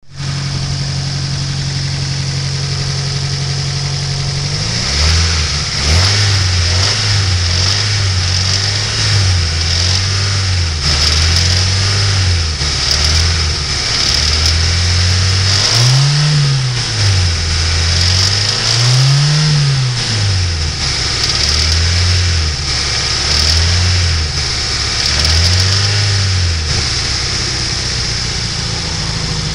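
Nissan SR20DET 2.0-litre turbocharged four-cylinder engine idling, then revved up and down about ten times for roughly twenty seconds before settling back to idle. The owner hears an odd tapping from this engine and does not know its cause.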